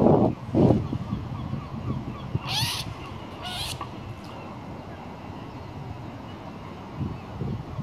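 Two short bird calls, about two and a half and three and a half seconds in, over a steady background. A loud low rumble at the very start dies away within a second.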